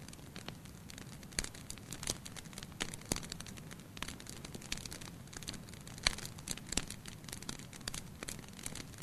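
Wood fire burning in a fireplace, with irregular sharp crackles and pops over a low, steady hiss. The loudest pops fall about six seconds in.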